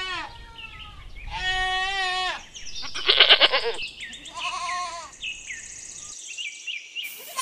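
Goats bleating: a series of separate wavering bleats, with smaller, higher calls in the second half.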